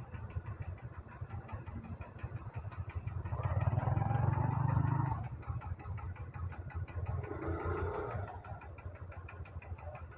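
Motorcycle engine idling with a steady low pulsing note, while another engine swells louder between about three and five seconds in and again more faintly near eight seconds.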